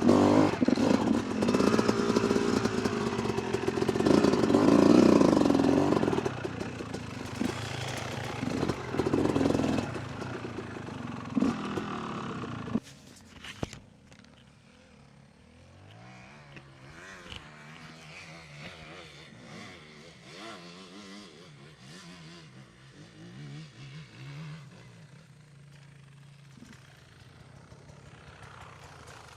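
Dirt bike engine revving hard for about the first 13 seconds, then dropping off suddenly to a much quieter, low engine note that rises and falls for the rest of the time.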